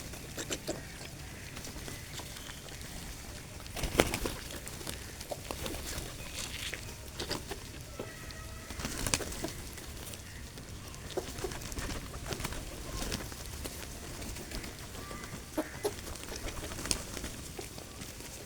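Birds at a feeding spot: scattered short taps and flutters, with a sharp knock about four seconds in, and a few brief chirps and calls.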